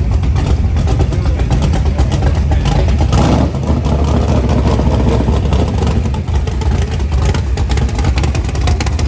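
Car engine running loudly with a deep exhaust rumble, revving up about three seconds in.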